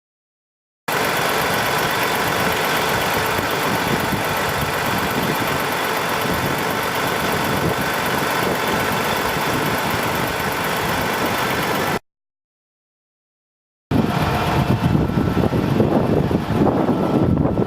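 1996 Peterbilt 379 dump truck's diesel engine idling steadily, broken by two short gaps of dead silence. After the second gap, about 14 seconds in, the sound turns rougher and more uneven.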